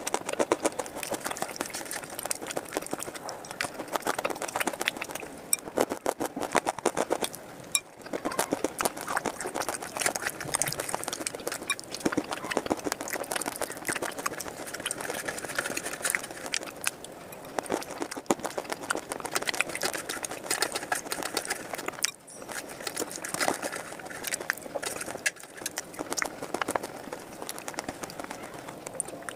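Close-up chewing of crunchy slate pencil and clay pieces: a fast, continuous run of crackles as they are crushed between the teeth, with brief pauses about 8 and 22 seconds in.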